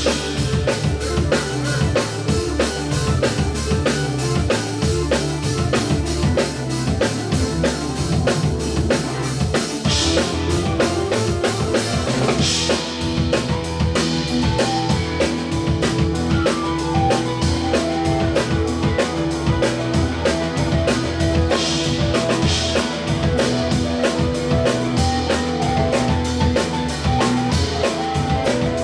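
Live band playing instrumental music: a drum kit keeping a steady beat with bass drum and snare over a bass line, with a few loud crashes, and long held notes coming in about twelve seconds in.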